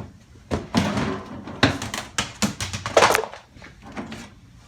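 A string of knocks, thuds and clatters, as of objects being handled and moved about, loudest about three seconds in.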